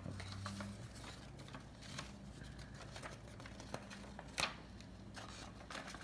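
Faint handling noises of paper rustling and small scrapes as scraped matchbox-striker powder is gathered off a sheet of paper into a bottle cap, with one sharp click about four and a half seconds in.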